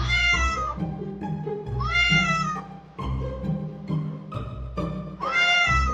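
Cartoon kitten meowing three times, each call rising and then falling in pitch, over background music.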